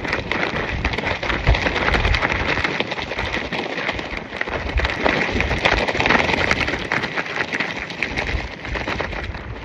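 Nylon tracksuit fabric flapping and crackling rapidly in strong, gusty wind, with wind rumble buffeting the microphone.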